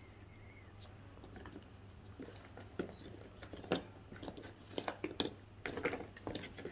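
Two-piece animal puzzle pieces being handled and fitted together: a scatter of light clicks and taps, more frequent from about two seconds in.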